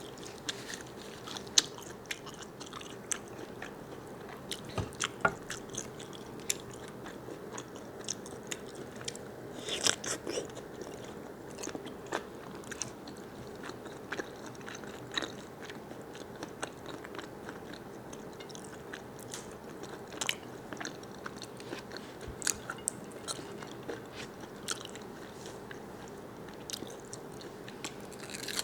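A person chewing and biting into large squid close to the microphone, with irregular wet mouth clicks and smacks.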